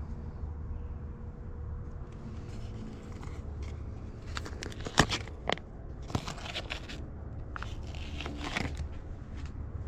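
Things being handled: scattered crinkling, scraping and sharp clicks, sparse at first and busier from about halfway in, over a steady low rumble.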